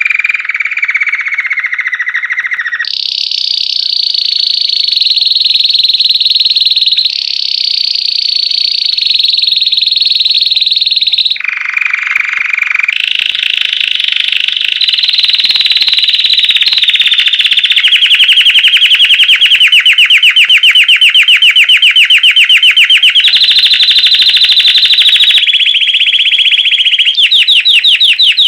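Belgian canary singing a loud, unbroken chain of rapid trills, the 'campainha' (bell) song. Each trill holds a few seconds before the song jumps to a new pitch, and the rolls run fastest in the second half.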